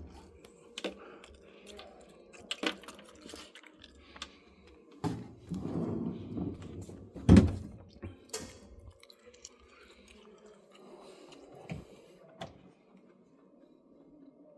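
Plastic refrigerator drawers being handled and slid, with scattered clicks and knocks and a heavier thunk about seven seconds in.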